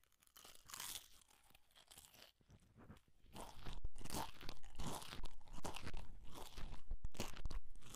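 Potato chips being bitten and chewed right at a headset microphone: faint at first, then loud, dense crunching from about three seconds in.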